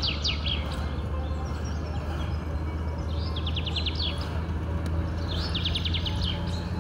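A songbird sings a short, fast trilled phrase three times, a few seconds apart, over the steady low hum of a car.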